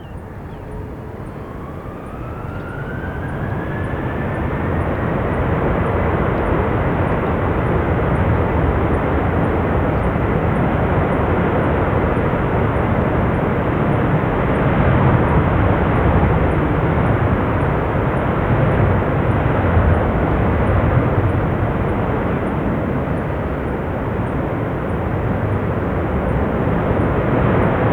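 Jet engines of an Airbus A330-300 spooling up to takeoff thrust: a whine rising in pitch over the first few seconds as the noise builds, then a loud, steady jet roar.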